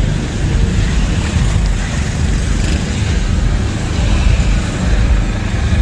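Steady roadside traffic noise with a heavy low rumble, wind buffeting the microphone.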